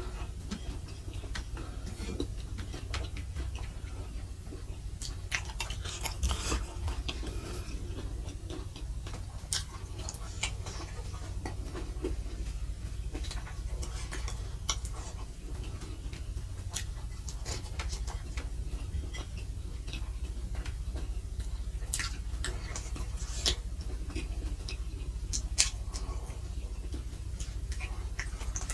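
A person chewing fried spleen close to the microphone: slow, scattered wet clicks and mouth smacks, with a few sharper clicks now and then, over a steady low hum.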